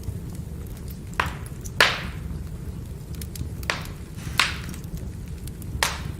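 Firewood burning with a steady low rumble of flame and sharp crackles and pops from the logs, five in all, the loudest about two seconds in.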